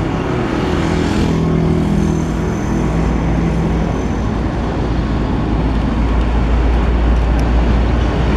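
Diesel train locomotive running, a loud steady low rumble with a deeper drone setting in after a couple of seconds.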